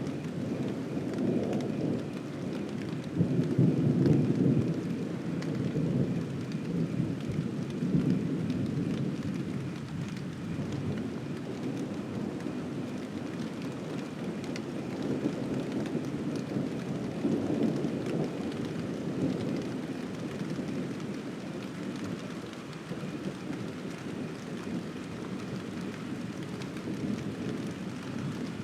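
Thunder rumbling in long, low swells over steady rain, loudest a few seconds in, with another swell just past the middle.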